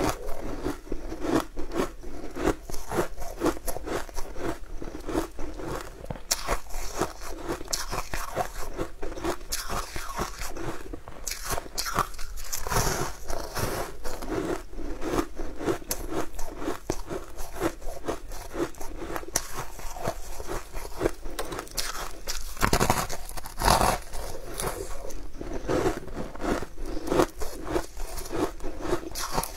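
A person biting into and chewing crunchy sugar-coated Chinese sweet pastries, with rapid crisp crunches in quick succession.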